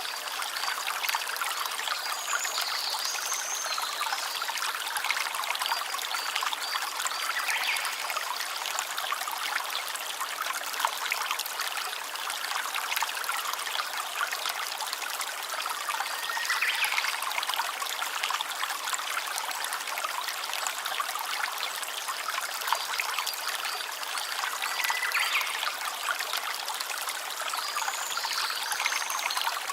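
Small stream trickling and splashing steadily.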